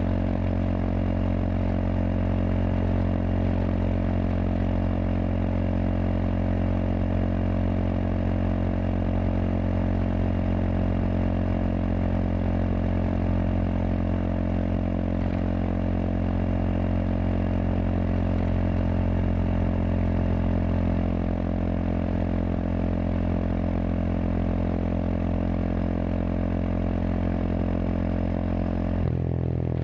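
Kawasaki KLX230SM's single-cylinder engine running through a K-Factory FRC slip-on silencer, holding a steady engine speed, then dropping suddenly in pitch near the end.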